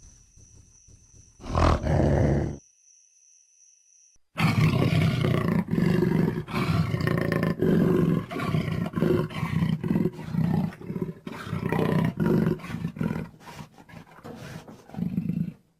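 Acrocanthosaurus roar sound effects: one short roar about two seconds in, then after a pause a long run of deep roars and growls broken into many short pulses, stopping abruptly near the end.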